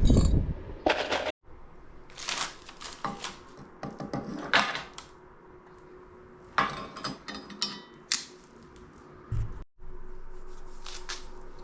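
Scattered metal clinks, knocks and rattles as aluminum scrap and tools are handled to reload a small electric melting furnace, with a heavier low thump at the start.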